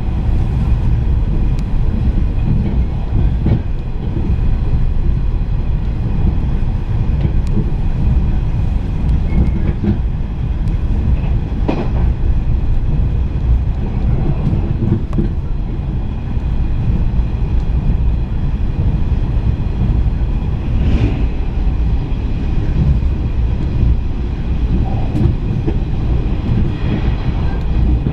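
JR East 485 series electric train running at speed, heard from inside the passenger car: a steady low rumble of wheels on the rails, with occasional sharp clicks from the track.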